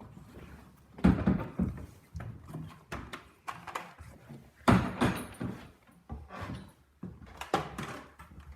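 A door being closed and footsteps going up stairs: a series of irregular thuds and knocks, the loudest about a second in and again near the middle.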